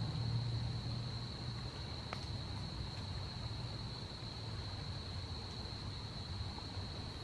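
A steady, high-pitched insect drone holding one pitch, over a low rumble, with a faint click about two seconds in.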